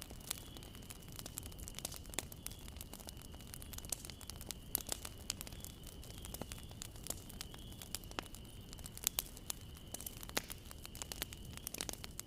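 Wood fire crackling, with irregular sharp pops and snaps, often several a second, over a low steady rumble. A faint, thin, steady high tone runs underneath.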